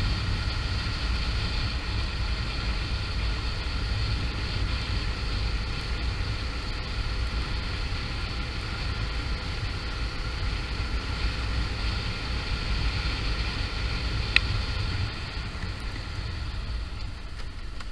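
Suzuki SV650 V-twin motorcycle riding along, its engine and wind noise a steady rumble and hiss, with a single sharp tick about fourteen seconds in. It gets quieter over the last few seconds as the bike slows.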